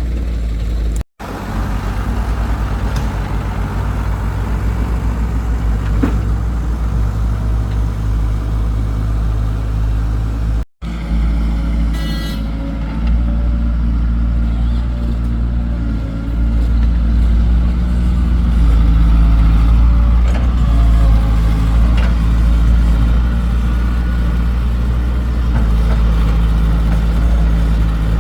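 Excavator engine running steadily with a low hum, growing louder past the midpoint. The sound drops out twice for an instant, early and about a third of the way through.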